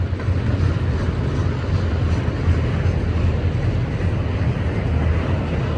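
Empty autorack freight cars rolling past on the main track: a steady, low rumble of steel wheels on rail.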